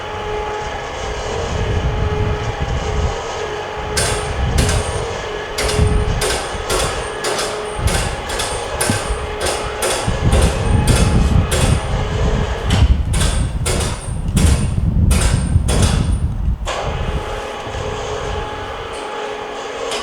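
Hammer blows on the timber of a wooden danjiri festival cart being dismantled: a quick, irregular series of sharp knocks, about two a second. They start a few seconds in and stop about three-quarters of the way through, over a steady hum.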